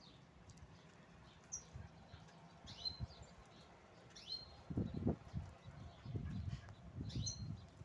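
Birds calling: a short whistled call that slides down onto a brief held high note, repeated about four times. Bursts of low rumbling noise in the second half are the loudest sound.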